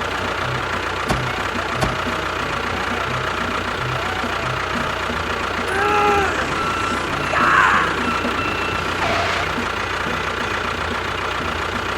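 A small motor running steadily, with a regular low pulse about every half second or so.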